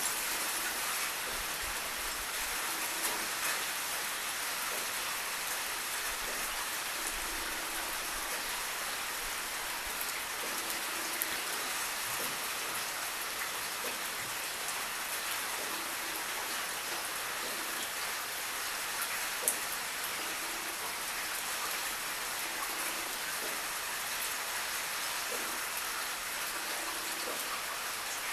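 Steady rain falling, an even dense hiss of drops, with two faint clicks, one about eleven seconds in and one about nineteen seconds in.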